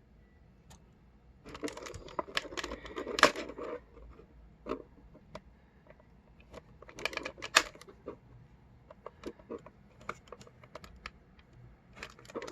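Clicking and clattering of small plastic action-figure parts and packaging being handled, in two busier bursts with scattered single clicks between.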